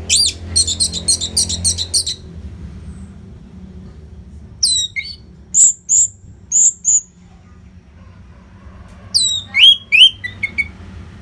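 Orange-headed thrush singing: a rapid run of high, repeated notes, then two more phrases of loud whistled and chirped notes, separated by pauses of about two seconds.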